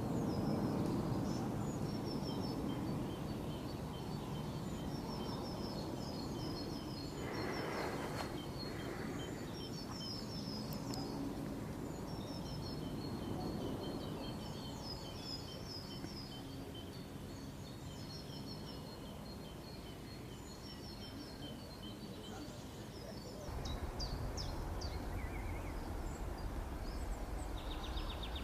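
Small birds singing, with short chirping phrases repeated again and again, over a steady low outdoor rumble; about three-quarters of the way through, the low rumble steps up and gets louder.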